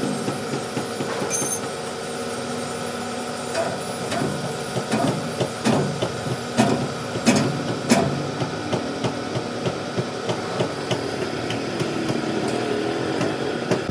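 Irregular sharp knocks of tools striking metal, loudest in the middle, over a steady mechanical hum, during heavy-truck axle repair work.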